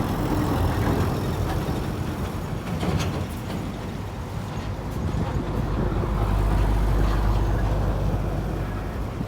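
Heavy truck engine running with a steady low rumble that swells about six seconds in.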